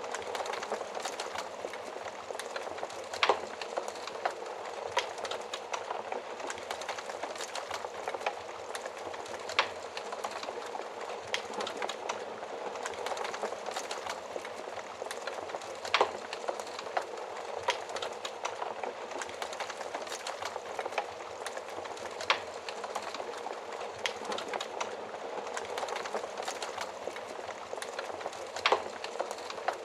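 Wood fire burning in a stove or oven, a steady rushing of flames with frequent small crackles and a few louder sharp pops.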